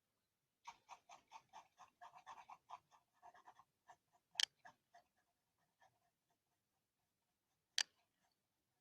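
Faint pencil scratching on paper in quick short strokes, about four or five a second, for the first few seconds, then a few scattered strokes. Two sharp taps come around the middle and near the end.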